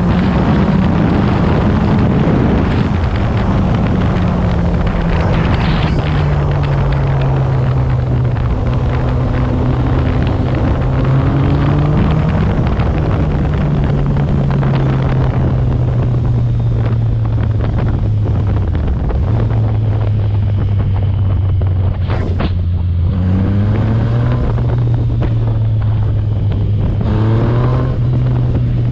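Yamaha MT-09 three-cylinder engine running through a tuned Yoshimura exhaust while the bike is ridden, with heavy wind noise on the microphone. The engine note sags slowly for most of the stretch, then climbs again in steps near the end.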